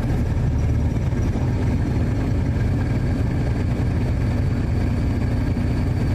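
Steady low rumble of a running vehicle, even throughout with no change.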